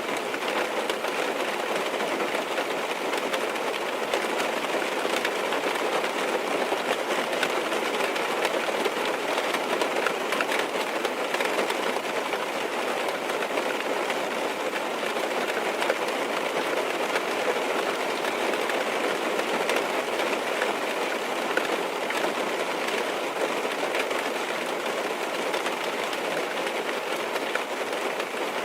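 Steady rain pattering on a car's roof and windows, heard from inside the car: a dense, even patter that neither builds nor eases.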